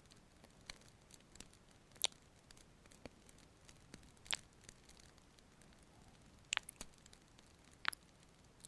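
Soft, sparse close-miked kiss sounds and fireplace crackle: a few sharp pops every couple of seconds over a faint crackling hiss.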